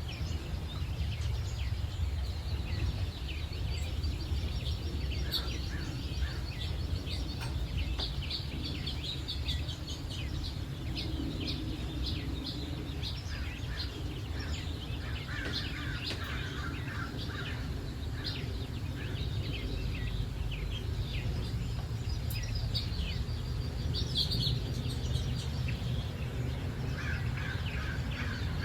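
Several birds chirping and trilling in a dawn chorus, many short rapid calls overlapping, over a steady low rumble.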